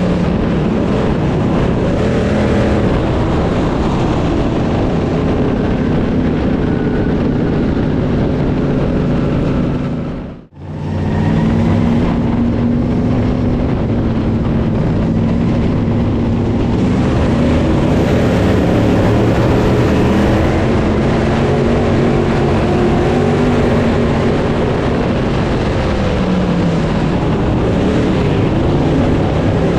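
Dirt late model race cars running flat out in a feature race, their V8 engines rising and falling in pitch as they circle the track. The sound drops out sharply for a moment about ten seconds in, then the racing resumes.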